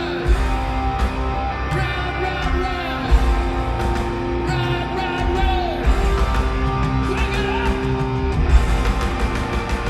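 Live rock band playing through a concert PA: electric guitar over bass and drums, with a lead vocal.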